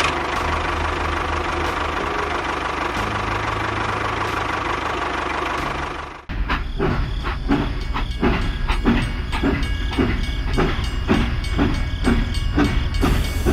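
A machine running with a steady hiss and low hum. After a sudden break about six seconds in, it gives way to a rhythmic chugging at about two beats a second.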